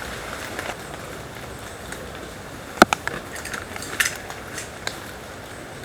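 Tent gear being handled while a canvas tent is pitched: a few sharp clicks and knocks, the loudest about three seconds in and another about a second later, over a steady background hiss.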